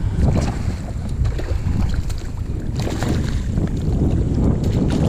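Steady low rumble of wind buffeting the microphone, with scattered light taps and clicks.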